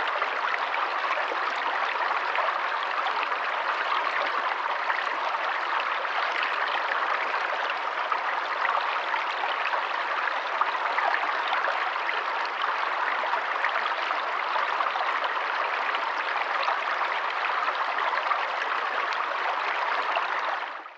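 Water running steadily, a stream flowing with an even rushing and splashing.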